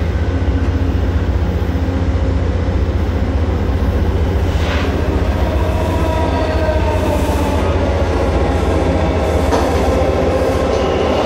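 Train noise: a steady low rumble, joined from about six seconds in by a whine that wavers in pitch as a train draws near.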